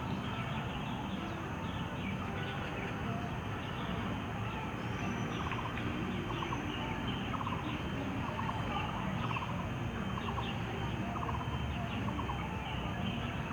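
Birds calling: short rapid rattling calls repeating every second or so, mixed with brief higher chirps, over a steady background noise.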